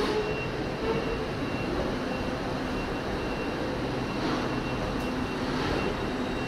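TransPennine Express Class 802 bi-mode train moving slowly along the platform: a steady rumble and hum with faint steady tones above it.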